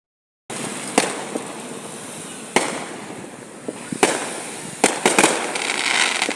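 Fireworks going off: a dense, continuous crackle of many bursts that starts abruptly about half a second in, with several sharp bangs standing out, including a quick cluster of three near the end.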